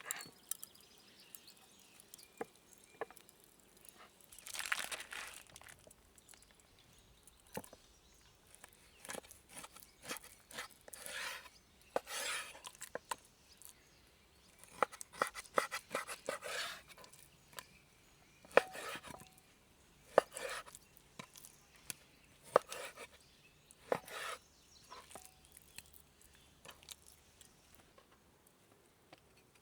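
Irregular rustling, crinkling and crunching of something being handled, broken up by scattered sharp snaps and knocks, two of them louder about two-thirds of the way in.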